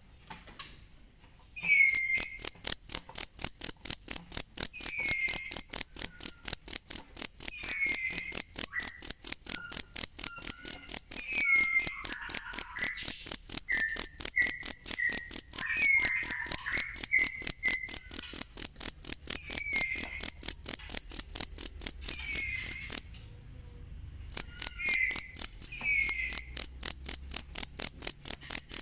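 A cricket chirping in a fast, even, high-pitched pulse. It breaks off twice, near the start and about three-quarters of the way through, leaving only a soft steady trill before the pulsing resumes.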